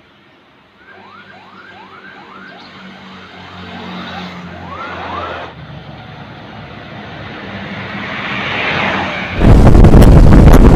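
A siren yelping in quick rising sweeps, about two a second, over the low running of vehicle engines that grows steadily louder. About nine seconds in, loud wind buffeting on the microphone suddenly takes over.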